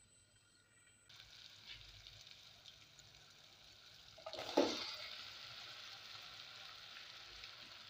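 Tomato masala sizzling in oil in a pot, the steady frying hiss starting about a second in. About four seconds in, chopped bottle gourd pieces are tipped in from a bowl with a brief loud clatter, and the frying carries on.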